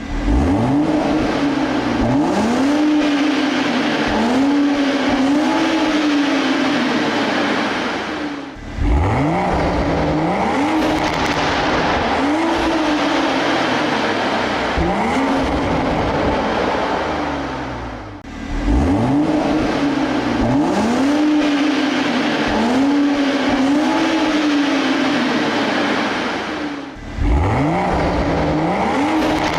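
Toyota Supra A91's 3.0-litre turbocharged inline-six revving through its stock exhaust, the engine note climbing sharply and then rising and falling over and over. This comes in three long runs, each broken off by a brief drop in loudness at roughly nine-second intervals.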